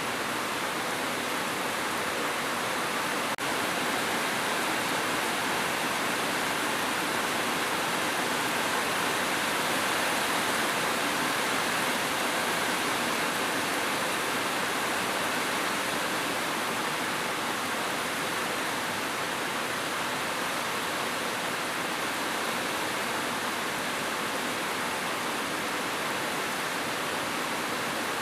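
Steady heavy rain falling, an even rushing hiss with no individual drops standing out.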